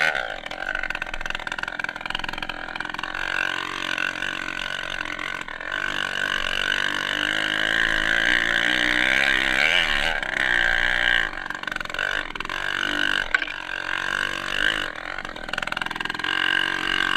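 Dirt bike engine running and revving, its pitch rising and falling repeatedly as the throttle is worked.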